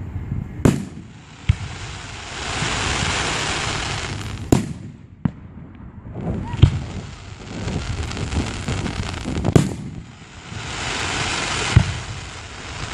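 Fireworks going off: about seven sharp bangs a second or two apart. Twice there is a stretch of dense crackling hiss lasting a couple of seconds.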